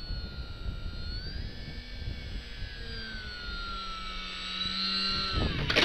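Electric motor and propeller of a Parkzone VisionAire RC plane whining, the pitch rising about a second and a half in, then falling sharply near the end. Low wind rumble on the microphone underneath.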